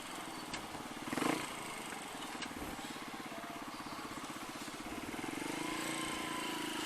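Rusi KR125 motorcycle running as it is ridden: a steady pulsing engine note that rises a little in pitch and level from about five seconds in. A brief rush of noise about a second in.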